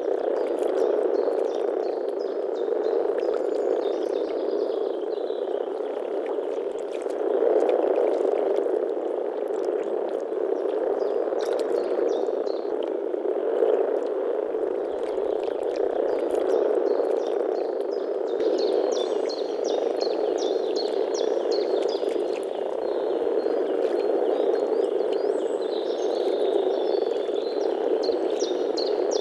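A chorus of common frogs (Rana temporaria) calling together, a dense, unbroken mass of low croaks at a steady level. High, rapid chirps run over it, busier from about two-thirds of the way through.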